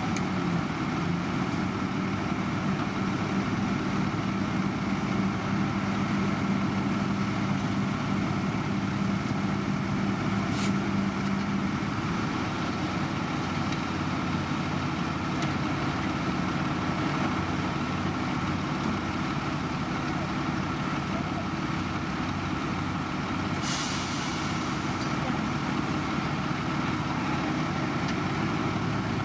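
Heavy diesel construction machinery running steadily with a constant engine drone. A short hiss comes about two-thirds of the way through.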